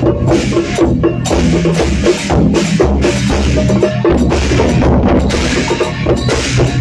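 Loud temple gong-and-drum percussion playing a steady beat: deep drum strokes under crashing cymbals, about two to three crashes a second.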